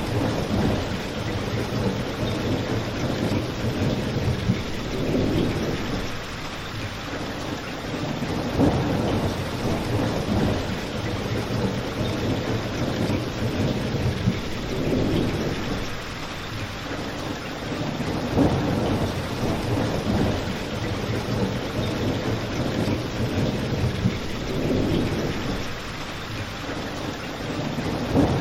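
Steady rain falling, mixed with a crackling fireplace, with low rumbles swelling and fading every few seconds.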